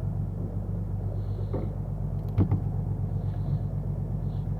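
Fishing boat's engine running steadily with a low hum, and a single sharp knock about two and a half seconds in.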